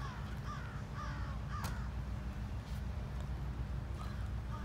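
A bird calling repeatedly: four short calls that slide down in pitch in the first couple of seconds and another pair near the end, over a steady low hum. A single sharp click comes about halfway through the run of calls.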